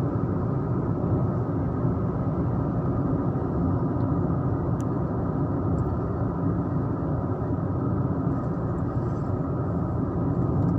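Steady road noise inside a moving car: engine and tyres running evenly, with no distinct events.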